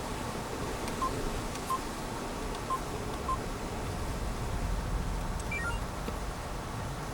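Short electronic beeps from a handheld device: four single beeps spaced irregularly, then a quick run of three beeps falling in pitch near the end, over a steady low rumble.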